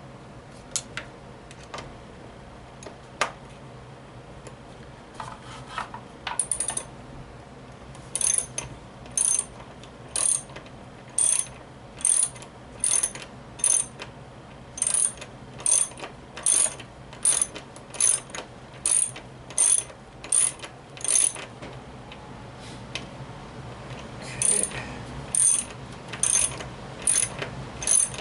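Ratchet tool driving in the screw that fastens a post to a pinball playfield. A few scattered clicks come first, then a steady run of short ratchet clicks about once a second with each back-stroke. The clicks pause briefly near the end and then resume.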